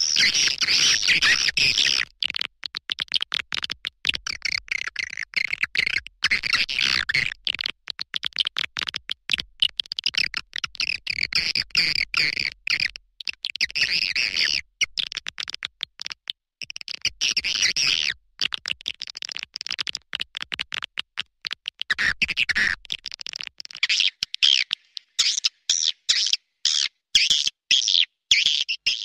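Swiftlet lure call: a recording of swiftlets twittering, played to draw the birds into a nesting house. Rapid strings of high, chattering chirps come in bursts broken by brief gaps.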